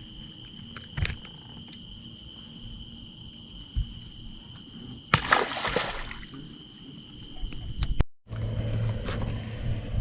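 Night insects keep up a steady high-pitched chorus, and about five seconds in there is a brief splash of water. After a short break near the end, a low steady hum takes over.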